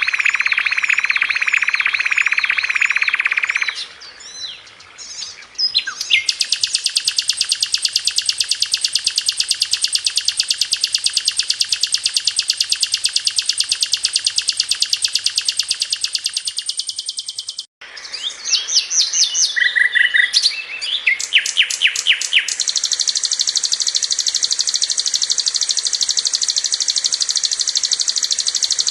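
Sikatan londo flycatcher singing fast and tight: long, even, rapid-fire trills of high notes, broken by a short pause about two-thirds of the way in and by shorter, varied whistled phrases.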